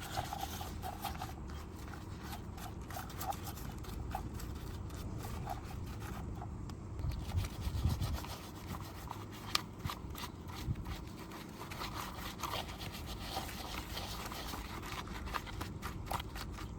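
Continuous scrubbing and rubbing in many short, scratchy strokes, as a brush or cloth works over a small diecast model car, with a few soft knocks in the middle.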